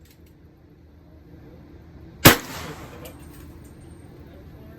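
A single handgun shot about two seconds in, loud and sharp, with a short echoing tail after it.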